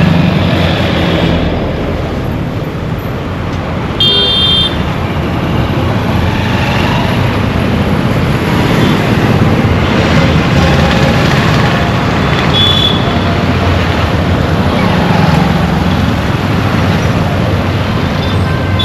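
Dense Indian street traffic: a steady mix of vehicle engines and road noise, with a short high-pitched horn toot about four seconds in and another brief one near two-thirds of the way through.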